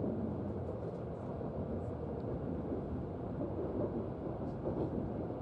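Steady low rumble of a Kyushu Shinkansen N700-series train running, heard from inside the passenger cabin.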